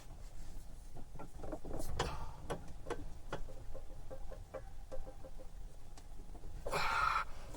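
Scattered small clicks and taps of hands working at a stove door's rope seal, with a short rasping scrape near the end.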